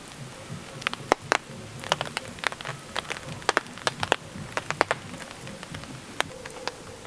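Scattered raindrops tapping on a surface, irregular sharp ticks several times a second, over a faint low hum.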